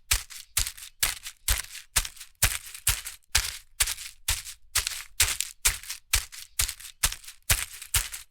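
A steady rhythm of sharp, crackly clicks, about three a second.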